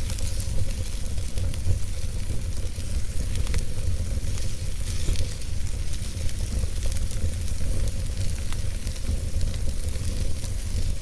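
Wood fire crackling in a fireplace: scattered small pops and snaps over a steady hiss and a constant low rumble.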